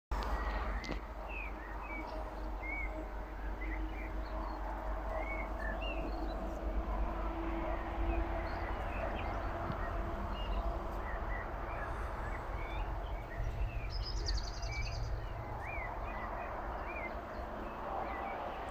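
Honeybees buzzing around flowering plants, a faint steady hum, with many short bird chirps and a steady low rumble underneath.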